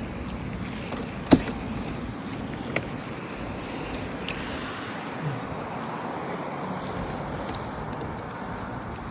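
Car driving on a rain-wet road: a steady hiss of tyre spray and road noise. A sharp knock comes about a second in and a fainter one a second and a half later.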